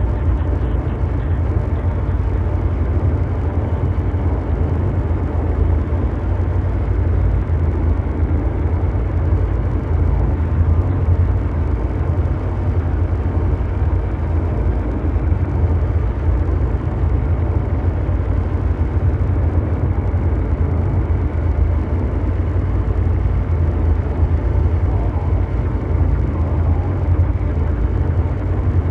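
Continuous mechanical drone: a steady low rumble with a dense hum of noise above it, unchanging throughout, an ambient brown-noise soundscape meant to evoke a vast engine.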